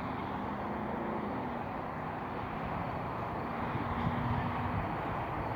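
Airplane passing overhead: a steady engine drone with a faint held hum.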